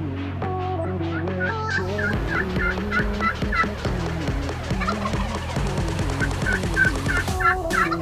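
Wild turkey tom gobbling twice, each gobble a rapid rattling call of about a second and a half, the first about two seconds in and the second about six seconds in, over background music.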